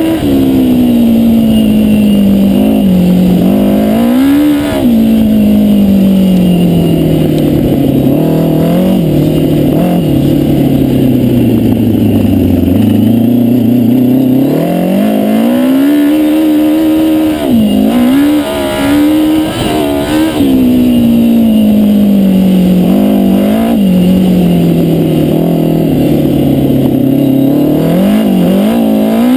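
Yamaha FJ1100 inline-four motorcycle engine running in a home-made dune buggy, its pitch sinking slowly over several seconds and climbing again, with short quick rises of the revs in between.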